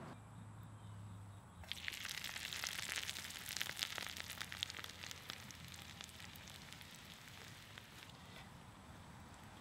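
Food sizzling and spitting in hot fat in a hand-forged iron egg spoon on campfire coals. The sizzle starts suddenly a little under two seconds in, is loudest with many sharp pops for a few seconds, then settles to a quieter sizzle.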